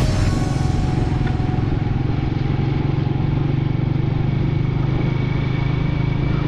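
Motorcycle engine running steadily under way, a constant low hum with road and wind noise.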